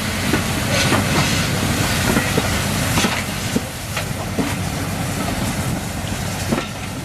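Train hauled by the steam locomotive 60163 Tornado rolling past, its wheels clicking irregularly over rail joints over a steady rumble.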